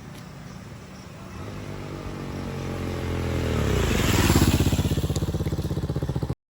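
A motorcycle engine approaches and grows steadily louder, its pitch dropping as it passes close by, then running loud until the sound cuts off abruptly near the end.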